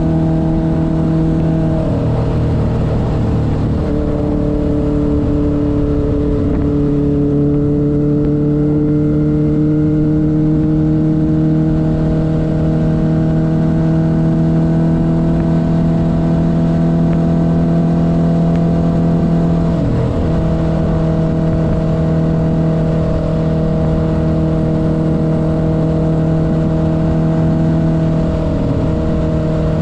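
1972 Honda CB500's air-cooled inline-four engine running under way at a steady pitch. The note rises slowly over long stretches and breaks briefly a few times, as with throttle changes or gear shifts.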